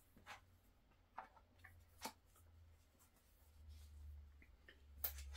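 Near silence with a few faint clicks and light rubbing as the plastic and rubber rider figure is fitted back onto the RC motorbike, the sharpest click near the end.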